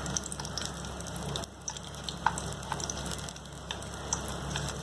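Spring rolls deep-frying in hot oil: a steady sizzle with scattered crackles and pops.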